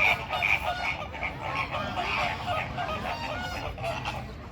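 Many birds calling at once: a busy chorus of short, repeated calls overlapping one another, loudest near the start.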